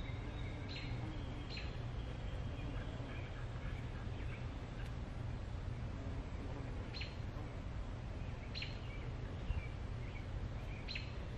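Birds chirping now and then, a few short calls spaced several seconds apart, over a steady low rumble of outdoor background noise.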